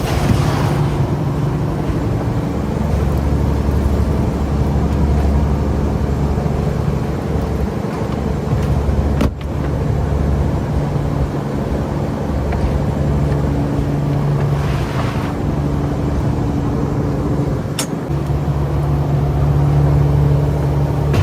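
Fishing boat's engine running steadily with a low drone, with a brief click about nine seconds in and another near eighteen seconds.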